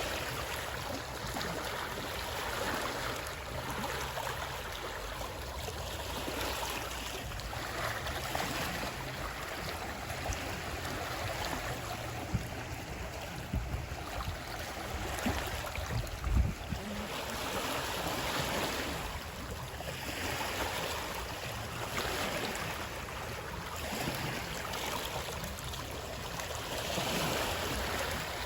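Running water, a steady rushing that swells and eases every few seconds, with a brief low thud about halfway through.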